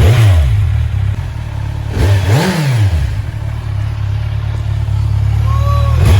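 2018 Kawasaki Z1000's inline-four engine idling with its exhaust partly or wholly open, blipped on the throttle: a rev falls away at the start, and another rises and falls about two seconds in, before it settles back to a steady idle.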